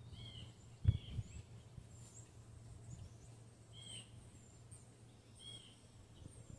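Garden birds calling with short, repeated chirps over a steady low background hum, with a single low thump about a second in.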